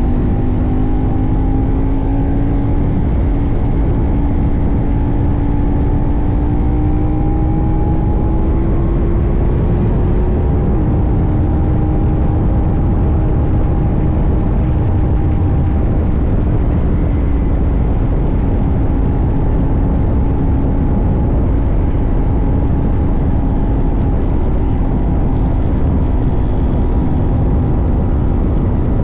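CFMoto 800NK's parallel-twin engine under way, its pitch climbing for about ten seconds, dropping at an upshift, then holding fairly steady and easing slightly a few seconds later. Heavy wind rumble on the tank-mounted microphone.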